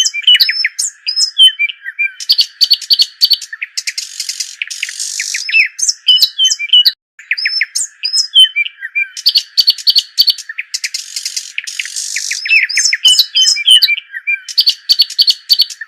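Small birds chirping: quick, high tweets and short trills in dense bursts over a steady high hiss. The sequence repeats, with a brief dropout about seven seconds in.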